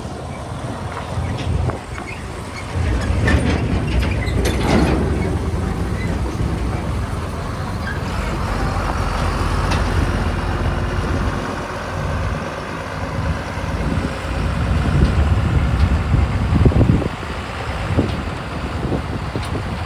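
Heavy diesel vehicles on the move: a JCB 3DX backhoe loader and Tata tipper trucks running with a steady low engine rumble and road noise, with a brief louder burst of noise about four seconds in.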